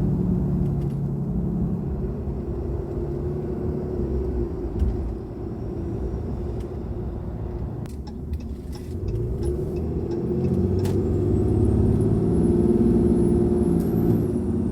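Ram 2500's 6.7-litre Cummins turbo-diesel breathing through an S&B cold air intake while driving: the engine eases off around the middle, then pulls harder from about two-thirds of the way in. A high turbocharger whistle rises with it and drops away near the end.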